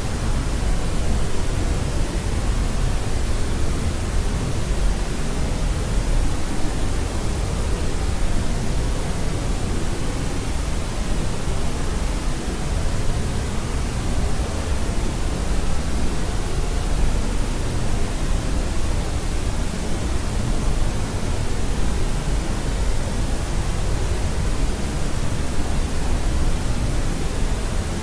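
Steady white-noise sleep sound: an even, unchanging hiss, heavier in the low end than the high, with no breaks or events.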